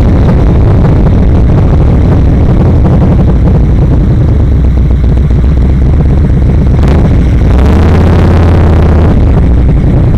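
Yamaha XVS1300 V-twin motorcycle engine running on the move, loud and low, settling into a steady note in the second half.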